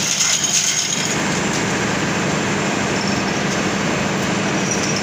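Industrial machinery running steadily: a dense, even noise over a constant low hum.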